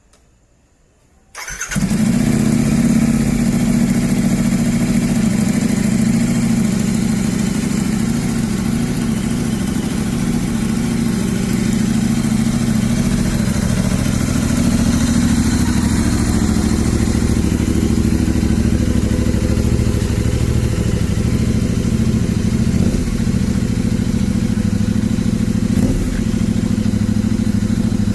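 Royal Enfield Interceptor 650's parallel-twin engine firing up about a second in on its first start with a newly fitted SS Moto full-system exhaust, then running steadily and loudly.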